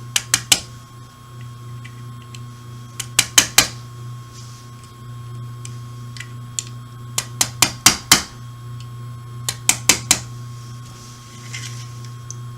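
Light hammer taps on a punch driving roll pins into the pistol frame, in four short runs of quick metallic taps.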